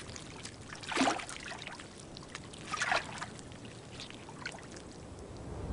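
Water trickling and splashing in a small freshwater spring, with two brief louder splashes about a second and three seconds in.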